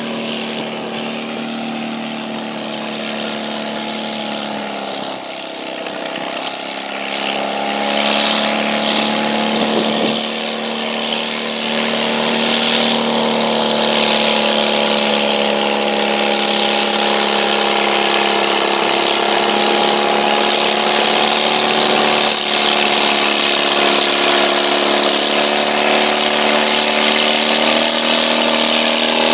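Garden tractor engine running hard under load while pulling a stoneboat sled. The pitch holds mostly steady with brief dips, and it grows louder partway through.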